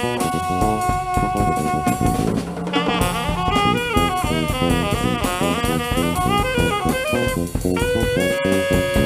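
A jazz band playing: a lead melody line over drums, holding a long note at the start, moving into quick runs, then settling on another held note near the end.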